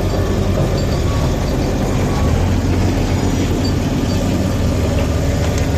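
Renault Modus 1.4-litre 16-valve K4J four-cylinder petrol engine running steadily, with an even low rumble.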